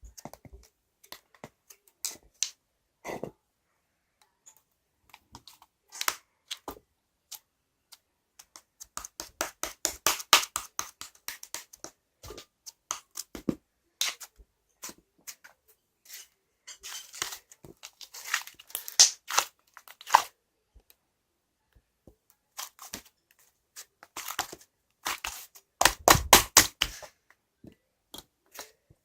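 Purple slime being squeezed and kneaded by hand: bursts of rapid clicking and crackling, the air pockets popping, with short pauses between; the loudest burst is near the end.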